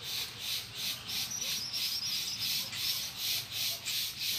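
Bird calls in woodland: a thin, high wavering trill about a second in, lasting about a second, over a steady high pulsing chorus at about four beats a second.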